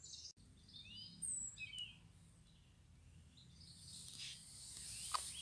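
Faint wild birdsong: a few short chirps and whistles about a second in, over a quiet background hiss.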